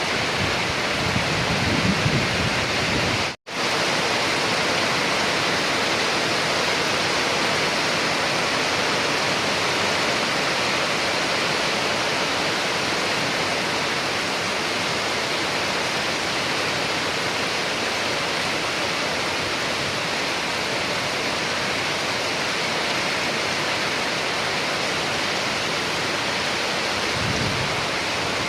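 Steady, even rain noise, with a split-second cut to silence about three and a half seconds in.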